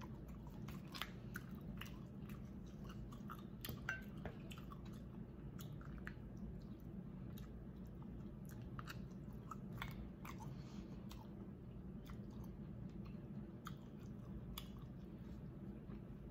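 Close-up chewing of seafood, with scattered small clicks and crackles from shells being handled in gloved hands, over a steady low hum.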